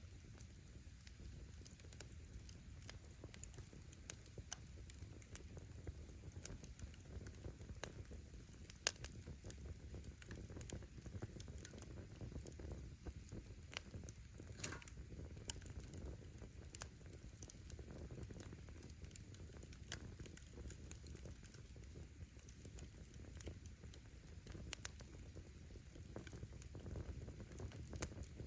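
Campfire firewood crackling: scattered sharp pops and snaps from the burning wood over a low, steady rumble, with a few louder pops now and then.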